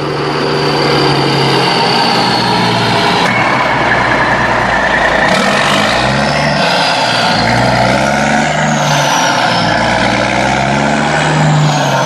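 Heavy vehicle engine running under a steady hiss, its pitch rising and falling several times as it revs.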